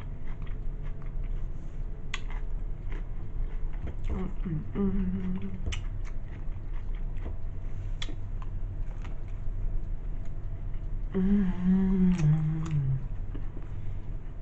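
Close-up eating sounds of a Subway sandwich being chewed: wet mouth and lip-smacking clicks. Short hummed "mmm" sounds about five seconds in and again near the end.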